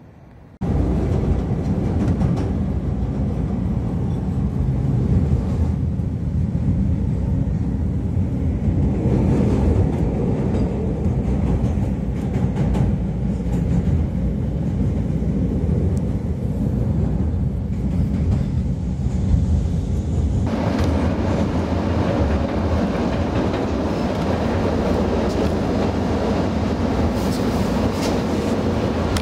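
CTA Brown Line 'L' train heard from inside the car as it runs along the elevated tracks: a loud, steady rumble of wheels on rail that starts abruptly and grows harsher and brighter about twenty seconds in.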